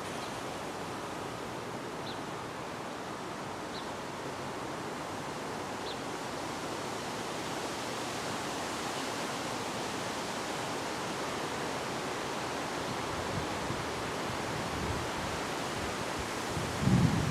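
Wind blowing steadily, an even rushing hiss, with four faint short high chirps in the first six seconds. Near the end, gusts begin buffeting the microphone with low rumbles.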